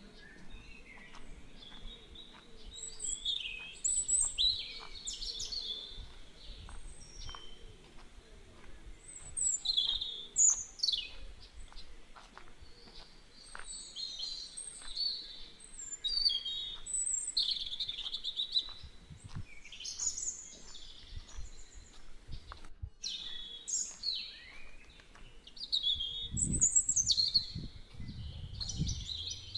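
Birds chirping and calling, many short high notes and quick falling whistles overlapping, with a low rumble near the end.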